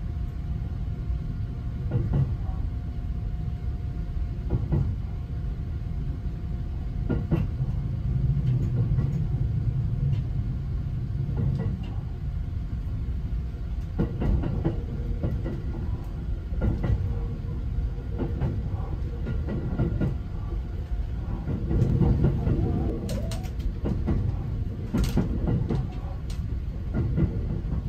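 A 285-series electric sleeper train running, heard from inside the cabin: a steady low rumble of wheels on the rails, with knocks every couple of seconds and a quicker run of clacks near the end.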